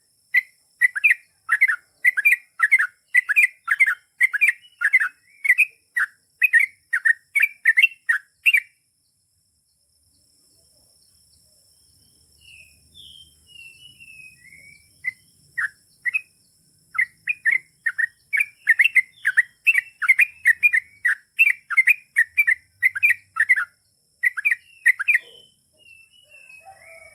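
Yellow-vented bulbul (trucukan) singing a long, fast run of repeated notes, two or three a second. The run breaks off about a third of the way in, and a few scattered higher chirps follow after a pause. It then resumes and runs on until near the end.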